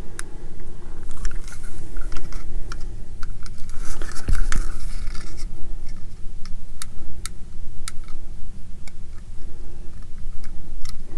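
Small plastic model-kit parts being handled and fitted by hand: scattered light clicks and scrapes of plastic against plastic and the work surface, over a steady low rumble.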